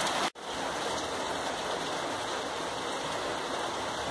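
Heavy rain falling steadily, a dense even hiss. It drops out briefly just after the start.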